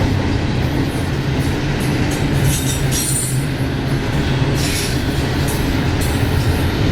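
Train rolling past on the rails with a steady low rumble, and brief high-pitched wheel squeals about midway and near the end.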